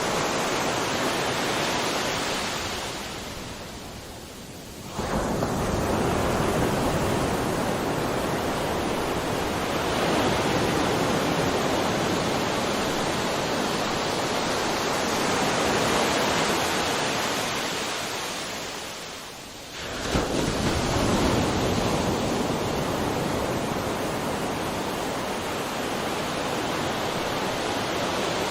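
Ocean surf: a steady wash of waves, with two lulls that each end in a sudden rush as a new wave breaks, about five seconds in and again about twenty seconds in.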